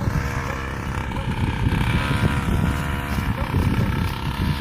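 Small motocross bike engine running at a steady pitch, with wind buffeting the microphone.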